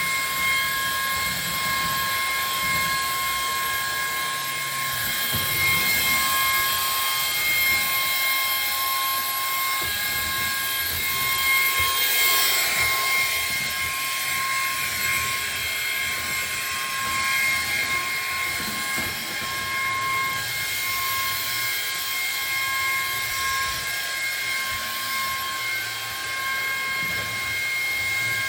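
Ryobi cordless stick vacuum running on high suction: a steady, high-pitched motor whine over a rush of air, loud and continuous.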